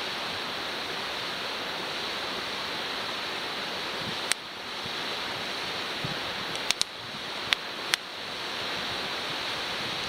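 Wood fire burning in an open fire pit: a steady rushing hiss with a few sharp cracking pops in the second half, two of them close together.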